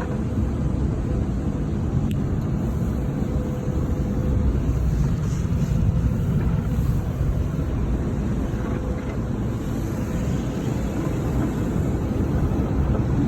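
Automatic car wash running around a truck: a steady low rumble with a faint steady hum.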